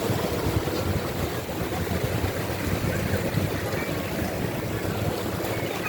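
Steady rush of wind and water, with a low rumble, heard out on the water during a boat ride.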